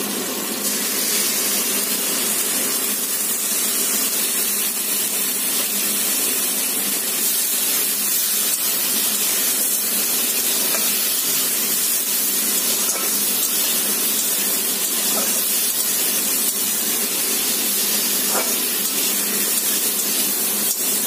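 Raw green mango pieces and green chilli paste sizzling in hot oil in a wok: a steady frying hiss, with a few faint scrapes of the spatula as they are stirred.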